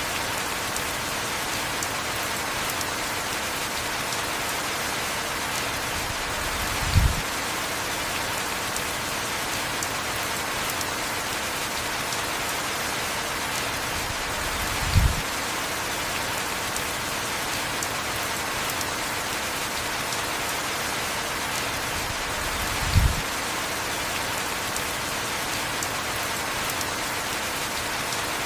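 Heavy rain falling as a steady, even hiss. Three short low thumps stand out, about eight seconds apart.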